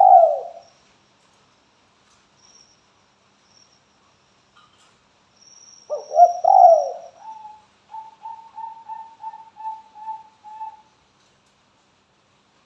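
Spotted dove cooing: the tail of one call at the start, then about six seconds in a fresh coo phrase followed by a quick run of about ten short, even notes, about three a second. It is a lure call meant to get other doves to answer.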